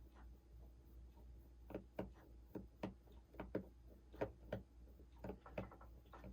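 Faint, irregular light clicks and taps, about two a second, from small repair tools and parts being handled while working on an iPhone 6's home button.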